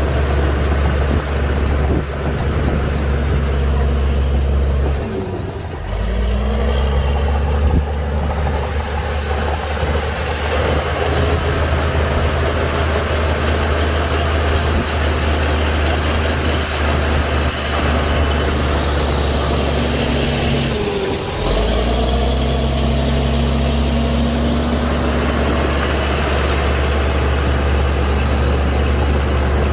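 Heavy diesel engine of an earthmoving machine running hard and steadily, with a high thin whine over the deep engine note. Twice, about five seconds in and again about twenty-one seconds in, the engine speed briefly sags and then picks back up.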